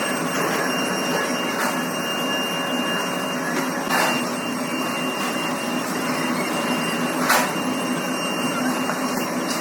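Steady running noise of heavy workshop machinery, with a few sharp knocks about four and seven seconds in.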